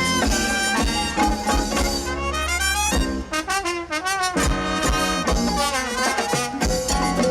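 Live Latin tropical dance band playing an instrumental passage with brass lines to the fore, including quick melodic runs. The bass and drums drop out for about a second midway, then come back in.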